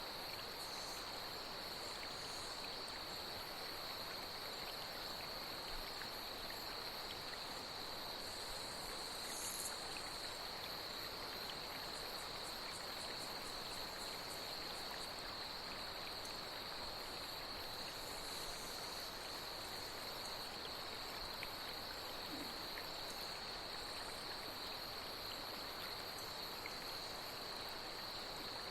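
Night insects singing in a steady high-pitched drone over the even rushing of flowing water, with brief higher chirring bursts now and then.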